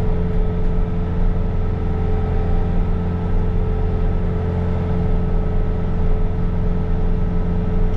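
Bobcat T66 compact track loader's diesel engine running steadily at working speed while it drives its snow blower attachment, a constant engine drone with no change in pitch.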